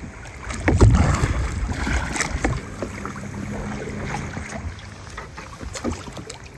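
Kayak being paddled on a river: paddle splashes and scattered knocks, the loudest about a second in, over a low rumble of wind on the microphone.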